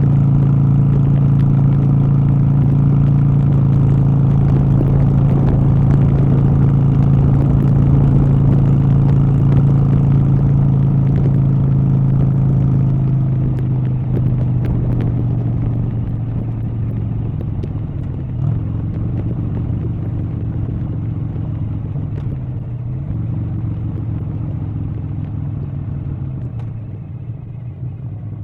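An engine running steadily with a low hum, growing gradually quieter over the second half.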